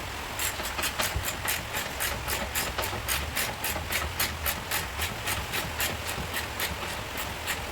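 A rapid, even run of light, sharp ticks, about five a second, over a low steady hum.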